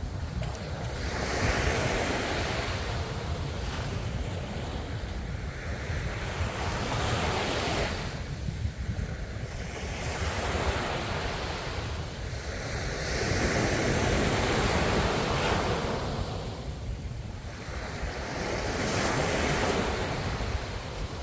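Sea waves breaking and washing on the shore, each surge swelling and fading every four to six seconds over a steady low rumble.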